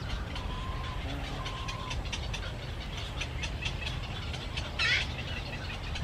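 Birds chirping with many quick short notes, two brief whistled calls in the first two seconds and one louder call about five seconds in, over a steady low rumble.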